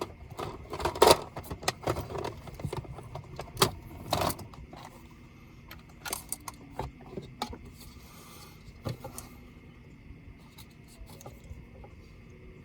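Small clicks, taps and scrapes of laptop parts and tools being handled during disassembly, loudest and most frequent in the first few seconds, then sparser.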